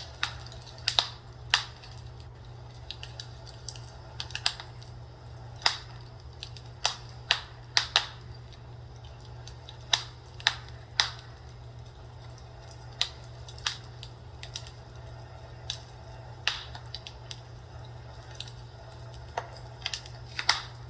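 Fireplace crackling: irregular sharp pops and snaps, some loud and some faint, over a steady low hum.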